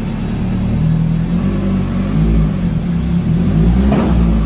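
Turbocharged Toyota 3S-GE Beams inline-four in an AE86 running, its pitch rising and falling slightly with the throttle.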